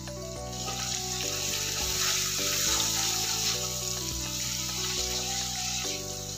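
Ground spices frying in hot oil with browned onions and garlic, a steady sizzle while they are stirred with a silicone spatula. Background music with sustained chords plays underneath.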